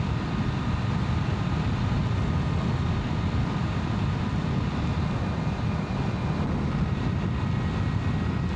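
Steady wind rush and low rumble on the microphone while riding an Energica Experia electric motorcycle at a constant speed. Faint, steady high tones sit above the rumble, the whine of the electric drivetrain.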